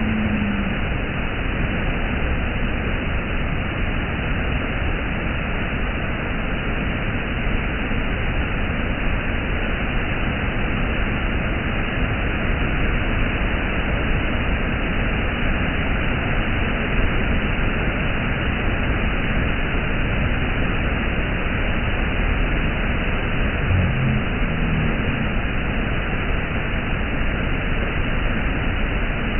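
Waterfall, a steady unbroken rush of water. A brief low tone sounds over it about three-quarters of the way through.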